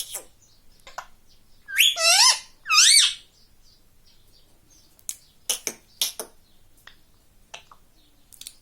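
Pet ringneck parrot giving two loud calls with a wavering pitch about two seconds in, followed a few seconds later by a series of short, sharp squawks or clicks.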